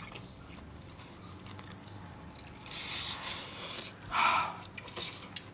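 Quiet chewing and small mouth noises of someone eating chicken, with a short louder noisy burst about four seconds in and a few small clicks near the end.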